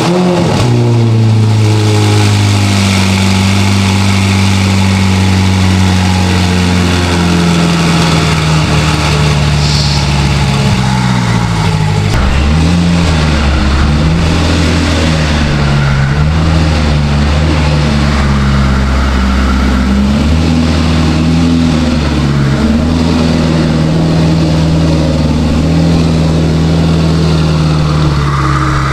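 Ferrari F8 Tributo's twin-turbo V8 running loud through a catless Ryft exhaust while driving, a steady drone that drops in pitch at the start, wavers up and down for several seconds around the middle, then settles again.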